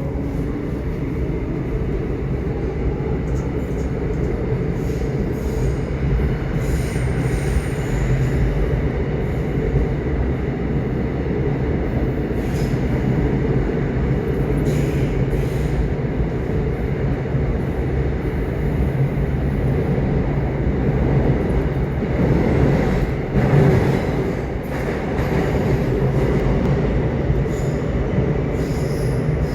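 Subway train running: a steady rumble of wheels on rails with brief high wheel squeals now and then. The noise swells a little past the middle, then dips briefly.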